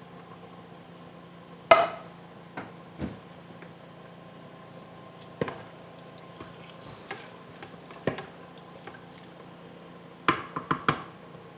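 Kitchen cookware and utensils knocking and clinking: about a dozen short, sharp knocks at uneven gaps, the loudest one near two seconds in and a quick cluster of several near the end, over a steady low hum.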